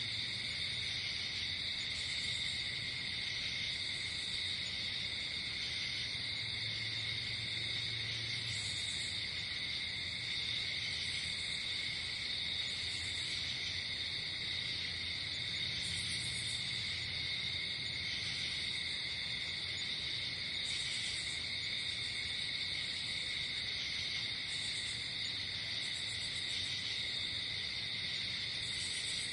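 Night insect chorus of crickets trilling steadily without a break, with shorter, higher buzzing calls coming and going every second or two.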